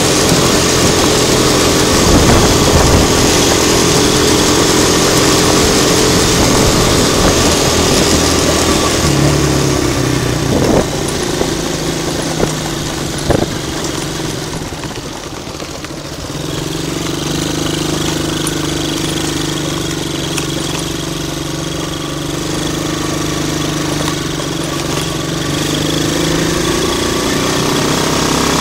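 A Hammer HT125 125 cc quad bike's engine running under way. It eases off about halfway, then picks up again and holds steady. A few short knocks come shortly before it eases off.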